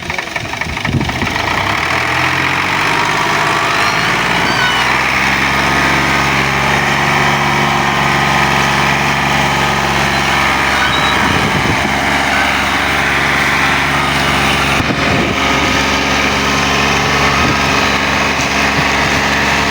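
Tractor diesel engine revving up over the first few seconds, then running hard and steady under heavy load while pulling a loaded sugarcane trolley.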